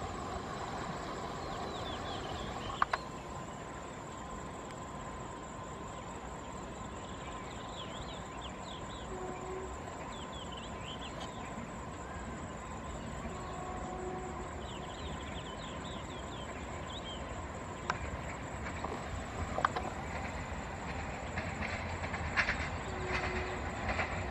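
A train running, heard as a steady low rumble with short high chirps over it. In the last few seconds, clicks and knocks from the wheels on the rails grow louder as it comes closer.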